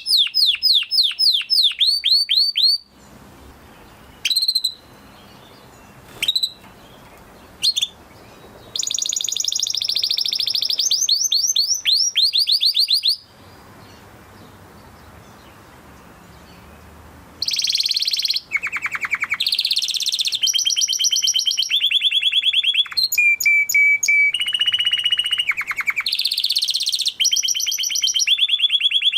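Domestic canary song: fast rolls of rapidly repeated whistled notes, each roll at its own pitch. Two pauses hold only a few scattered single notes, one from about three to nine seconds in and one from about thirteen to seventeen seconds.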